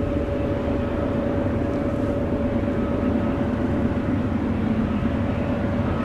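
Norfolk Southern freight train rolling past, a steady heavy rumble with a thin high tone held over it.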